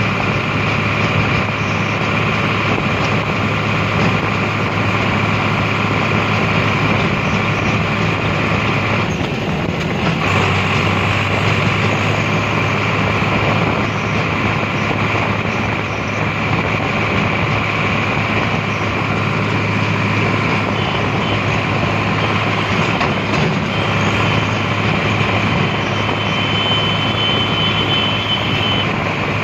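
Tractor engine running steadily at high speed, a continuous drone with a brief dip and slight change in tone about ten seconds in.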